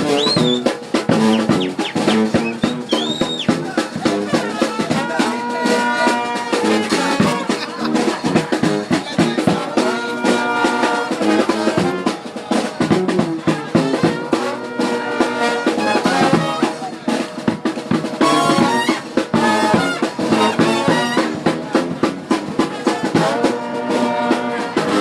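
New Orleans brass band playing: trumpet and trombone over snare and bass drum. The horns hold long notes here and there above a steady, busy drumbeat.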